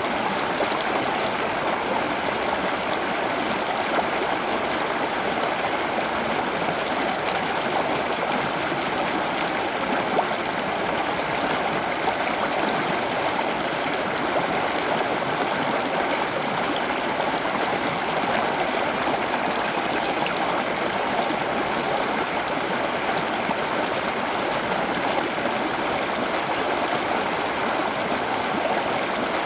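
Steady flowing water, like a small stream or trickling fountain, running evenly without change.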